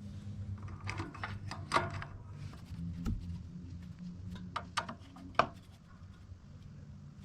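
Scattered light clicks and taps of hand tools and carburetor parts being handled while a new carburetor is fitted to a small engine, over a low steady hum.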